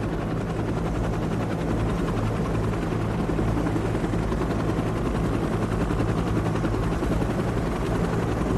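Helicopter in flight: steady, fast rotor chop over a constant engine drone.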